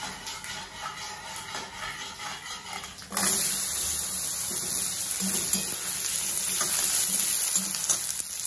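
Cubes of taro root (seppankizhangu) dropped into hot tempering oil of mustard seeds and urad dal in a metal kadai: a loud sizzle starts suddenly about three seconds in and keeps going as the pieces are stirred with a perforated ladle.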